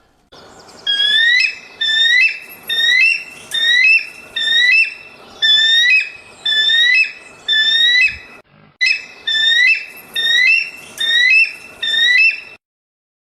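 An animal's whistled call, a pair of rising notes repeated again and again about one and a half times a second, with a short break about eight seconds in.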